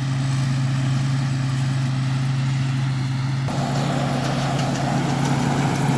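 Thai Sing Yont rice combine harvester's diesel engine running steadily as it harvests. About halfway through, a fuller, louder rushing noise of the machine joins the engine hum.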